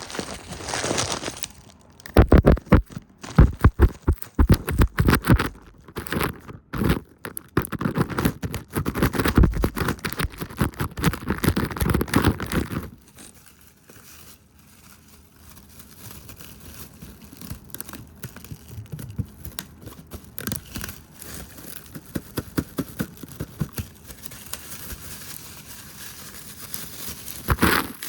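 Fast, close-miked hand sounds: rapid tapping and brushing on a camera lens. For about the first half the taps come loud and dense, then they give way to softer rubbing and brushing with scattered taps, and a brief louder flurry comes near the end.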